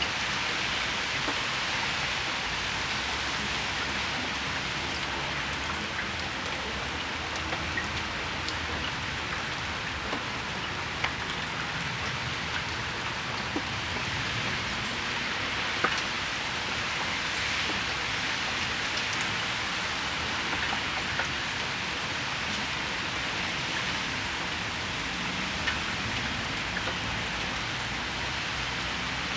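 Steady rain shower falling on a patio and its surroundings: an even hiss with scattered louder individual drop hits, a few of them sharp.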